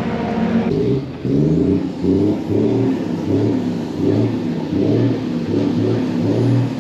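Lorry engine revved in quick repeated blips, the pitch rising and falling about once or twice a second.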